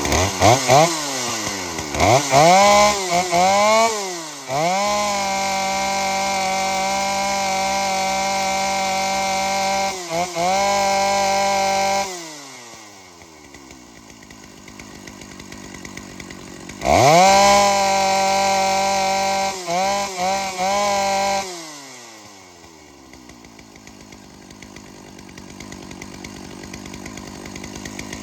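Dolmar PS 9000 two-stroke chainsaw running on its replacement ignition coil. It is blipped several times, held at high revs, dropped to idle, revved again in a few blips and a hold, then left idling.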